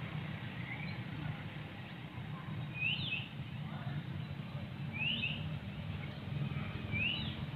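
A bird calling three times, short high chirps about two seconds apart, over a steady low rumble.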